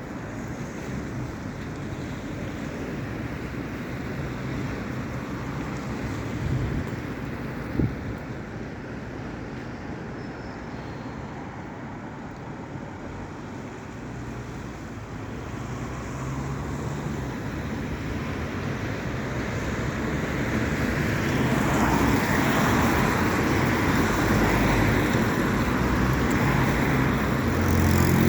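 Road traffic passing on a wet road: the rushing hiss of tyres on wet tarmac with the low running of vehicle engines, growing louder through the second half as traffic comes close. A short knock about eight seconds in.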